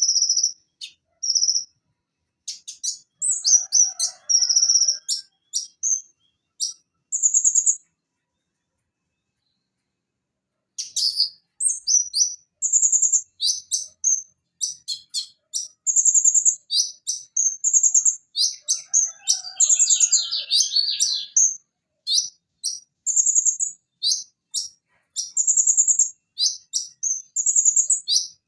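Purple-throated sunbird (konin) singing: a rapid run of sharp, high chirps and trills. The song stops completely for about three seconds about a third of the way in, then resumes.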